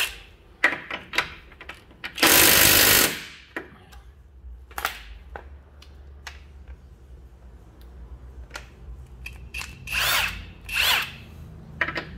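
Hercules Ultra Torque 20 V 1/2-inch cordless impact wrench run in one loud burst of about a second, a couple of seconds in, then two short bursts near the end, with clicks and knocks of the tool and socket being handled.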